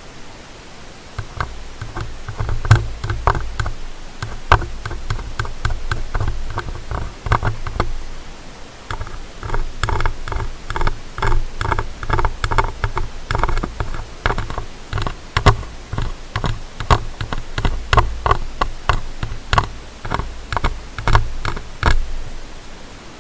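Ear-cleaning tool scraping and rubbing close against the microphone in ear-cleaning ASMR: fast, irregular crackly scratches and clicks over a low rumble. It starts about a second in and stops shortly before the end.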